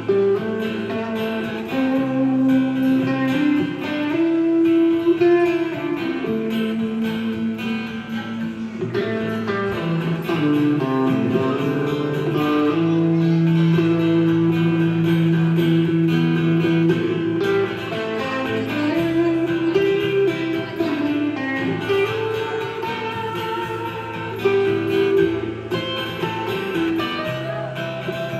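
Instrumental break of a country-blues song played on guitars, with some long held notes and no singing.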